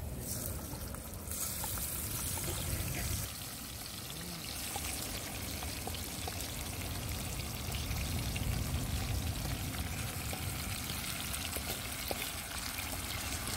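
Pieces of eel frying in oil in a pot over a wood fire, sizzling steadily as chopped tomatoes and onions are scraped in, with a few light clicks of the utensil against the pot.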